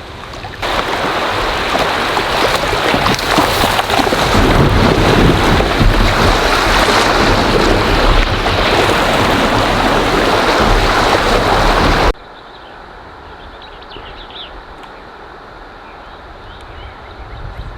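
Strong wind buffeting the microphone on a kayak, a loud rushing noise with a heavy low rumble. About twelve seconds in it cuts off abruptly to a much quieter steady rush of wind and water.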